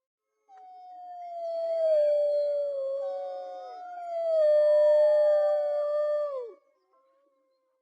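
Wolves howling in chorus: several long, overlapping howls, each held fairly steady and then falling in pitch as it ends. They start about half a second in and die away about a second before the end.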